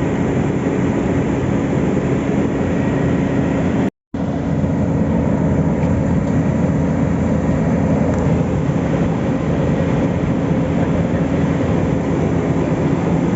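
Heavy diesel road-paving machinery running steadily under load, a deep engine drone over rumbling mechanical noise. The sound drops out abruptly for a fraction of a second about four seconds in, then carries on.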